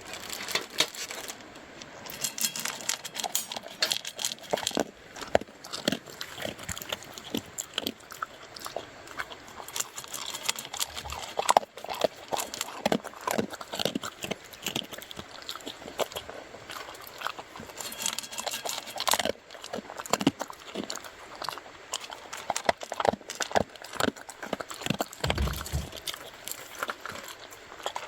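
Irregular crunchy chewing, with many short crackling crunches and clicks, and a brief low thump near the end.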